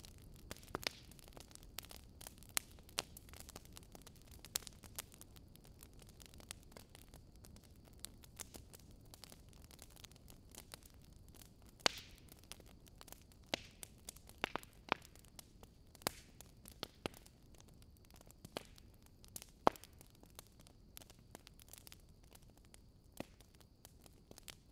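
Wood fire crackling in a fireplace: irregular sharp pops and snaps over a quiet, steady hiss.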